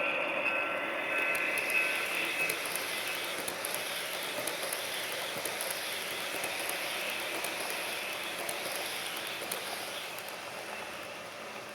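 HO scale model train running on its track: the small wheels roll and tick over the rails while the GP40-2 locomotive's DCC sound decoder plays its engine sound, with a steady tone for the first couple of seconds. The sound fades gradually toward the end.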